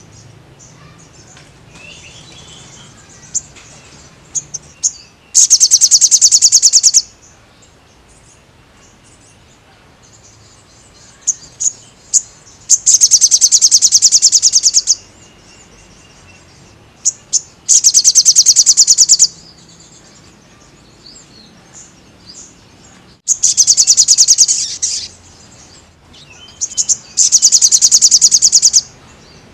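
Sogon (a sunbird) singing: five loud, fast high-pitched trills of rapidly repeated notes, each lasting about one and a half to two seconds, with short single chirps between them.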